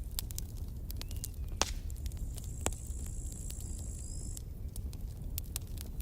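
Campfire burning: irregular crackles and sharp pops of burning wood over a steady low rumble of the flames. A thin, high, steady hiss sounds for about two seconds in the middle.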